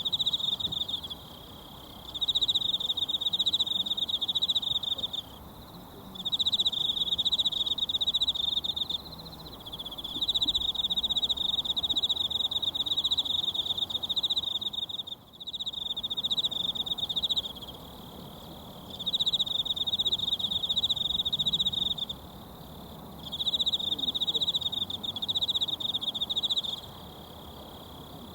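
An insect trilling high and fast, in repeated bouts of a few seconds separated by short pauses, over the faint steady rush of a mountain stream.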